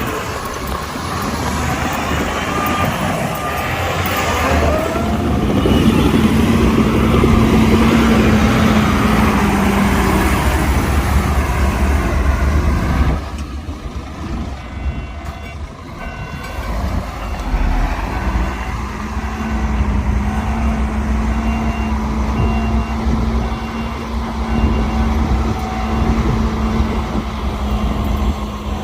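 Diesel engines of heavy earthmoving machines working under load, rising to their loudest in the first half and dropping off suddenly about halfway through. In the second half, a reversing alarm beeps in a steady repeating pattern over the engine noise.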